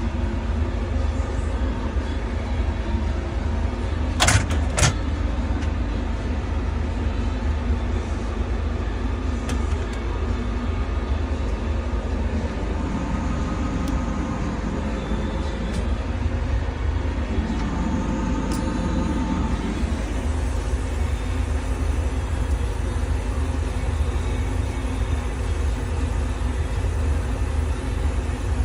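Custom refrigeration unit running, with a steady low rumble and hum and a few faint steady tones coming from the top of the unit, the abnormal noise the unit is making. Two sharp clicks about four seconds in.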